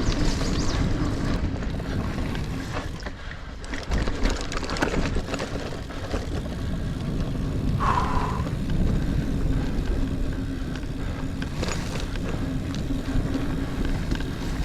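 Niner Air 9 RDO 29er mountain bike ridden along dirt singletrack: knobby tyres rolling over the trail, with chain and frame rattling in many small clicks over bumps. There is a short squeak about eight seconds in.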